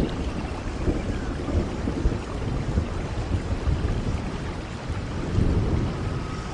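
Steady rain with low rolling thunder, the rumble swelling a little over five seconds in.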